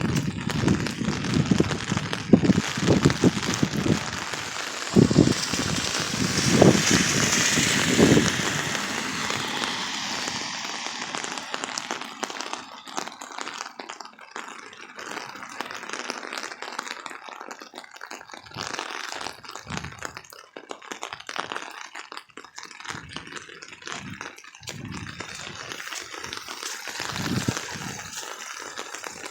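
Heavy rain pouring down, a steady hiss. Irregular low thuds come in the first several seconds and the hiss swells louder for a few seconds before settling into an even downpour.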